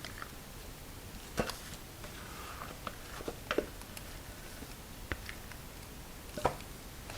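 Light kitchen handling noises: faint rustling with a handful of short, sharp clicks and taps spread through, the loudest about a second and a half in and again near the end.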